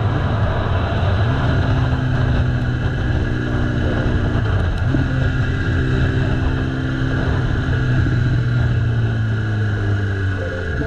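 Motorcycle engine running steadily at a fast idle, its pitch shifting slightly a few times and dropping near the end.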